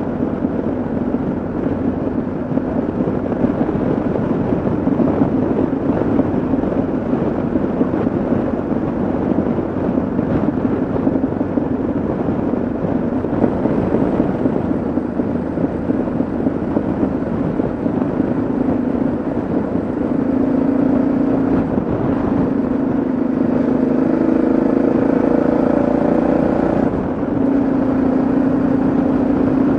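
Yamaha XT 660Z Ténéré's single-cylinder engine running at road speed under wind rush, its note stepping in pitch a few times in the last ten seconds.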